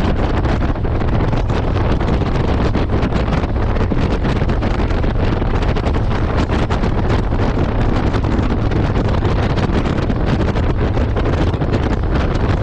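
Wind buffeting the microphone of a motorcycle at riding speed, a steady rushing noise over the engine's low running hum.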